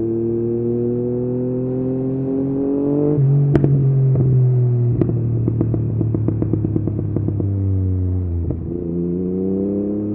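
Yamaha MT-09's three-cylinder engine through an Akrapovic exhaust, pulling with a steadily rising note for about three seconds. When the throttle closes, a rapid run of exhaust pops and crackles lasts several seconds as the revs fall on the overrun. Near the end it picks up and rises again.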